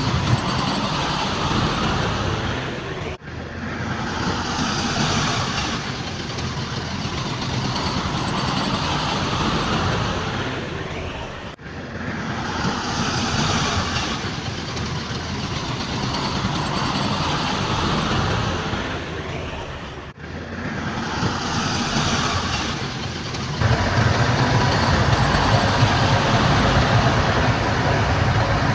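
Diesel engines of heavy earthmoving machines running steadily, the sound breaking off briefly three times. From about three-quarters of the way in, a louder, deeper engine sound takes over.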